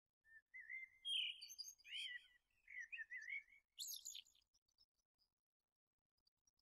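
A songbird singing a quick warbling phrase of chirps and wavering notes for about four seconds, followed by a few faint high chirps.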